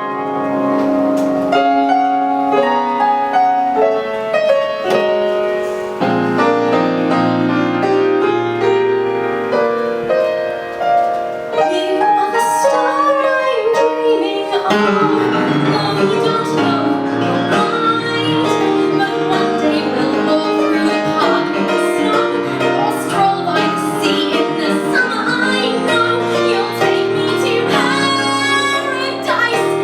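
A musical theatre song performed live: a woman singing over piano accompaniment, with the music growing fuller about halfway through.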